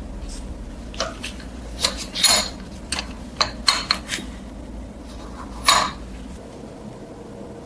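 Metal tools or parts clinking and knocking together, about nine light, irregular strikes, the loudest one near the end, over a low steady hum that stops about six and a half seconds in.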